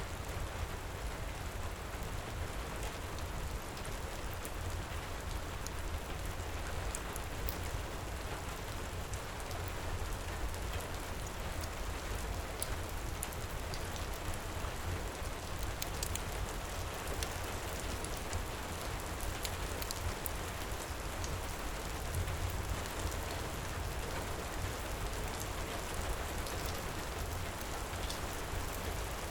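Steady heavy rain pouring, with a deep low rumble beneath and scattered small high crackles that fit a wood fire.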